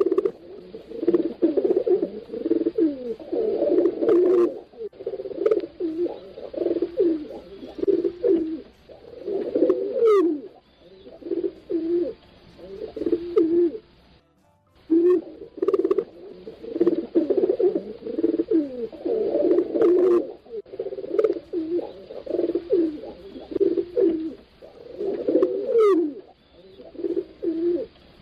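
Several pigeons cooing, with low coos overlapping almost without pause. The same stretch of cooing repeats after a brief break about halfway through, as a loop.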